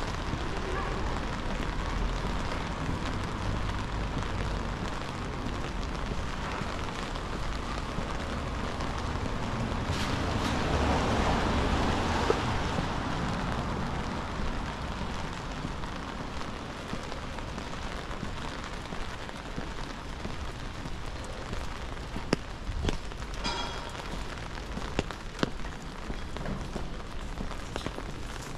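Steady rain falling on a city street as a continuous hiss, swelling louder for a few seconds about ten seconds in. Scattered sharp taps of drops come in over the last few seconds.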